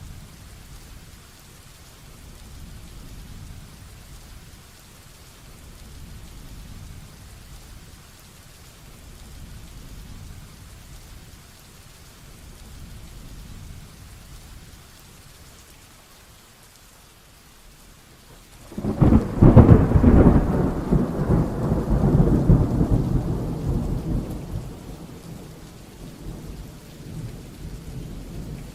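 Heavy rain falling steadily, then about two-thirds of the way through a sudden loud thunderclap that rumbles on for several seconds and fades back into the rain.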